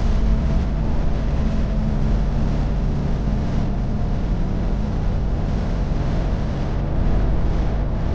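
Semi-truck's diesel engine running steadily at highway cruise, with road and tyre noise, while it hauls an oversize load.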